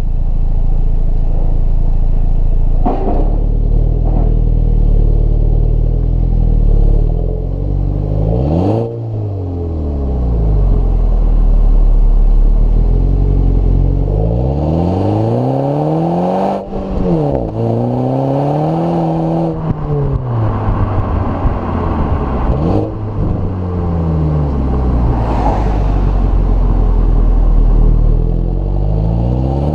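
Exhaust of a 2015 MINI Cooper S's turbocharged 2.0-litre four-cylinder engine, revving up and dropping back several times, its pitch rising and falling, with a few sharp cracks as the revs fall.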